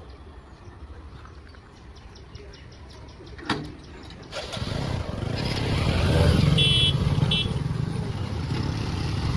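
A train's running noise: a low rumble, then a sharp click about three and a half seconds in. Soon after, it turns abruptly into a loud, steady rushing rumble, with two short high-pitched toots in the middle.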